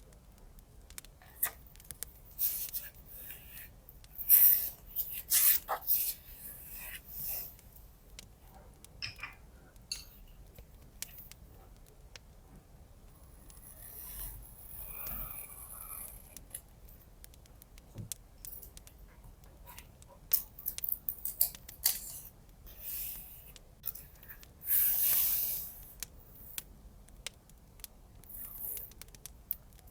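Paper-crafting sounds: scissors snipping through paper and paper being handled, in irregular crisp snips and rustles, with one longer rasp of about a second near the end.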